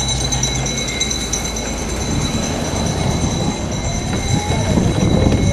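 Electric motorcycle in motion: wind rushing over the bike-mounted microphone and road rumble, with no engine sound, only a faint steady high-pitched whine.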